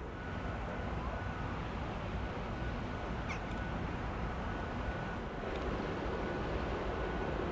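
Steady outdoor rumble and hiss with a thin, steady high tone, and a short bird call about three seconds in.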